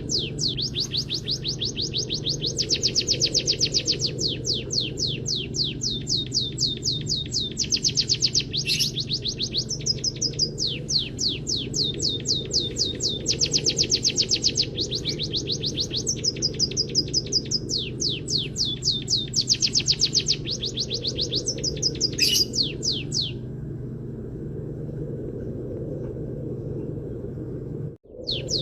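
Small songbird singing a canary-style song: fast trills of repeated high chirps in phrases that switch note type every second or two. A steady low hum runs underneath. The song breaks off about 23 seconds in, and after a brief dropout it starts again just before the end.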